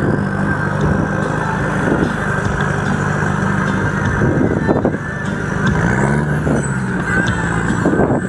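Off-road 4x4's engine running under load, its pitch dipping and rising a few times around the middle as the throttle is worked, with a few knocks.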